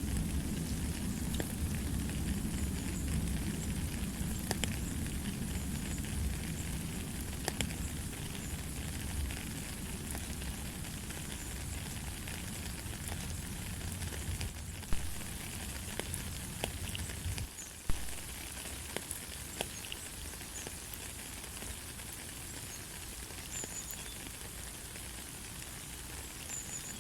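Light, steady rain: an even hiss with scattered drop ticks, and a couple of sharper drop taps about 15 and 18 seconds in.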